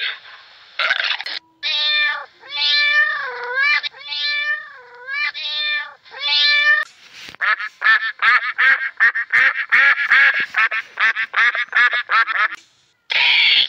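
A sea lion bellows briefly, then a domestic cat meows about six times. The cat gives way about halfway through to mallard ducks quacking in a fast run of short calls.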